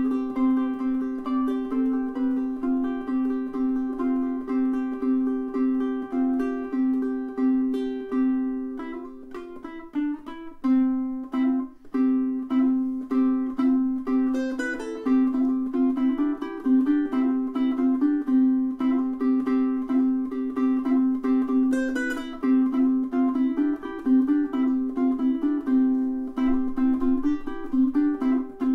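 aNueNue UT5K solid koa tenor ukulele played solo: a run of plucked notes over ringing lower notes, with a brief lull about ten seconds in.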